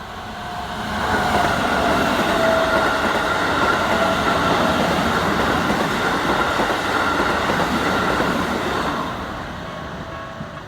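Keikyu 2100-series eight-car electric train passing over a level crossing, its wheels clattering over the rail joints. The sound swells about a second in, stays loud, and fades after about nine seconds. The crossing's warning bell rings steadily underneath.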